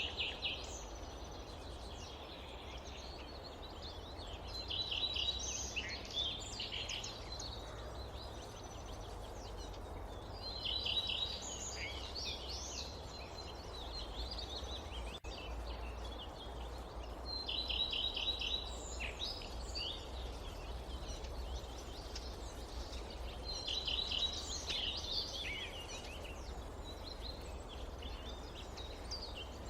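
A songbird singing the same short song over and over, about every six seconds: a quick trill of repeated notes followed by a jumble of higher notes. Underneath runs a steady low rumble of forest ambience.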